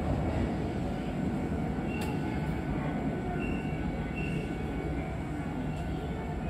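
Keisei Line electric commuter train running on the track, a steady rumble of wheels and running gear heard from the driver's cab. There is a sharp click about two seconds in and a few short, high squeaks soon after.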